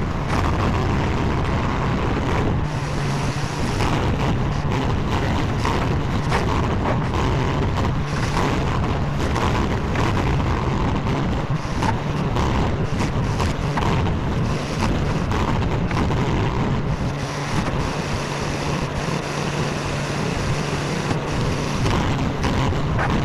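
SCL850 skid steer's engine running steadily under work, with scattered sharp knocks.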